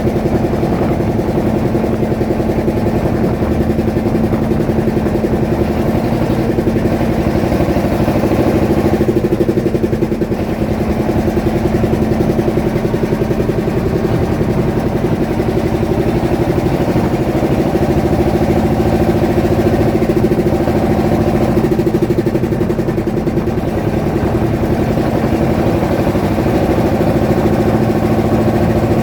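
Fishing boat's engine running steadily under way: a loud, even drone with a fast, regular beat.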